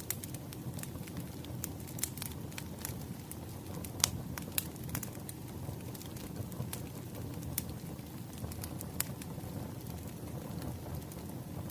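Wood fire crackling: irregular sharp pops and snaps over a steady low rumble of burning logs, with the loudest pop about four seconds in.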